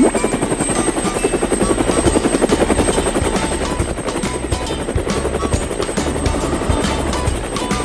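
Cartoon vehicle sound effect: a fast, even chopping pulse that runs steadily, over background music.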